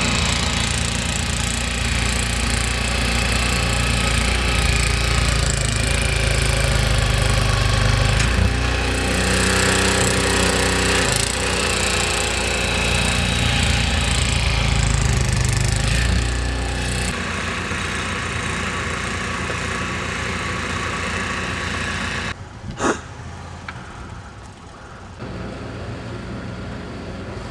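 An engine running under loud, rough noise, easing off about two-thirds of the way through, with one sharp knock near the end.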